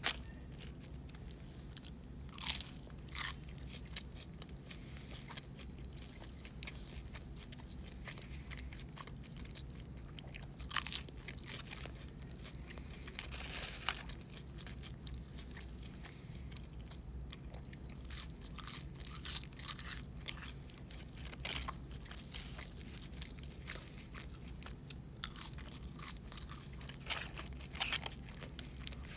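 Close-miked eating sounds of fast food: bites and crunchy chewing, with sharp crunches here and there between softer chewing, over a steady low hum.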